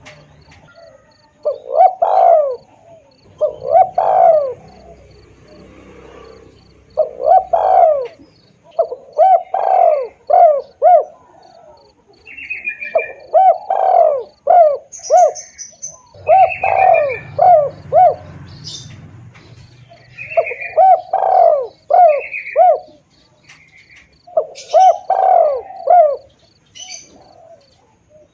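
Spotted dove (tekukur) cooing, phrase after phrase of several notes about every two to three seconds, played as a bird-catching lure call. Smaller birds chirp higher now and then, over a steady faint high ticking about three times a second.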